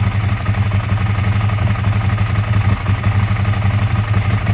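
Ducati 1098's L-twin engine idling steadily, with a fast, uneven pulsing beat.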